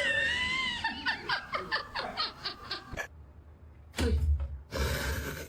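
A short high-pitched cry, then rapid pulsed laughter at about four beats a second. After an abrupt cut, a couple of seconds of rumbling, noisy handling or wind sound.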